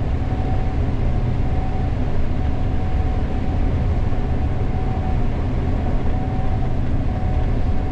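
Gleaner S98 combine running steadily, heard from inside its cab: a constant low machine drone with a steady thin whine above it.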